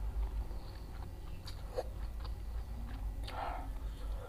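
Close-miked chewing of food, with short wet mouth clicks and one louder bite about three seconds in, over a steady low hum.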